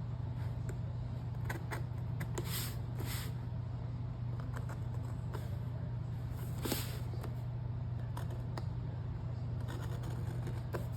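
X-Acto craft knife scratching and scraping as it cuts through a printed paper journal page along a line, in short irregular strokes, a few louder ones, over a steady low hum.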